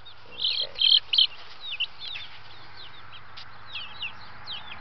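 Chickens calling: a run of short, high-pitched calls that slide downward, with three louder calls in the first second and a half.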